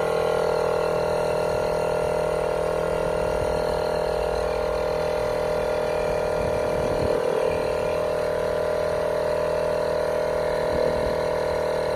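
Cordless portable air compressor (tyre inflator) running steadily, pumping air into a car tyre, a constant even drone.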